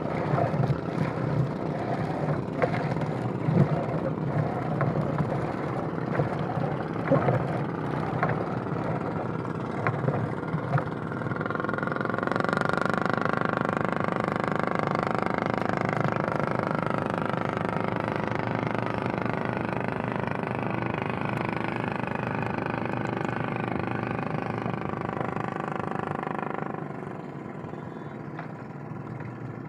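A small fishing boat's engine running. About twelve seconds in it steadies into a louder, even drone, and near the end it drops back sharply, as when the throttle is eased. Scattered knocks sound over the engine in the first half.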